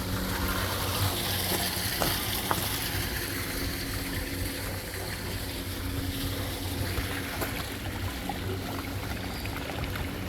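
Water running steadily through a gem-panning sluice, with a low steady hum, and a couple of sharp clicks about two seconds in.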